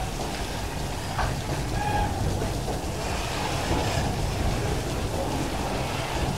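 Freight wagons loaded with eucalyptus logs rolling steadily past, a low rumble of wheels on rail, with heavy rain falling.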